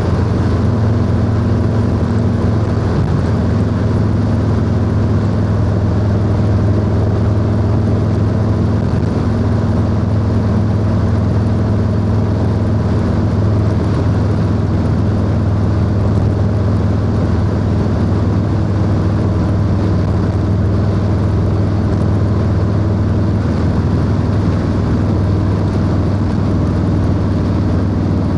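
Harley-Davidson Low Rider S V-twin running at a steady cruise through a 2-into-1 exhaust, with an even, unbroken engine drone and no big changes in revs.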